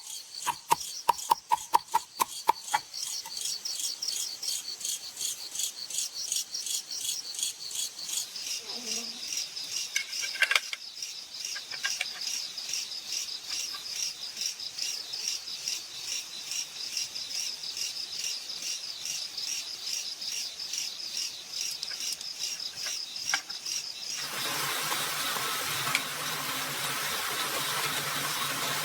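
A quick series of sharp knocks in the first few seconds, then a steady high-pitched pulsing of several beats a second. About 24 seconds in, this gives way suddenly to a steady rushing noise.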